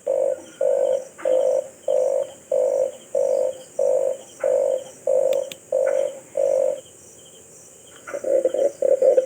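Red collared dove calling: a series of about ten low, evenly spaced coos, then a short pause, then a quicker run of coos near the end.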